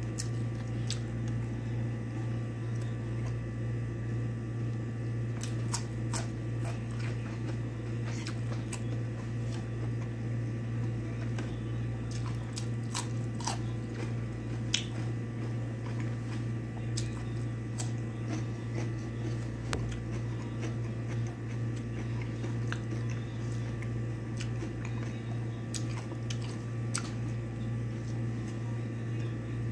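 Close eating sounds: a person chewing a mouthful of rice and chicken, with scattered short wet mouth clicks and smacks, the sharpest about halfway through. Under it runs a steady low hum.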